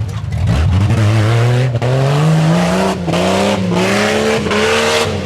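Tuff truck engine revving hard, its pitch climbing from about a second in and dipping briefly several times before rising again.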